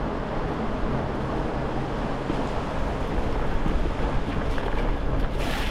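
Steady wind rush on the camera microphone and road noise from a bicycle being ridden, with a brief swell of hiss near the end.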